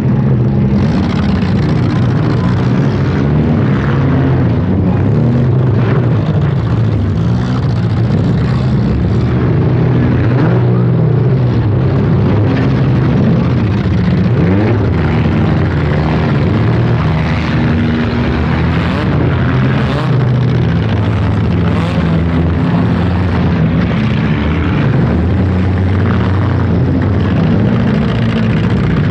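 Several four-cylinder demolition-derby cars' engines running and revving at once, their pitches rising and falling as they drive about the arena, with a few sharp knocks of car-on-car hits about two-thirds of the way through.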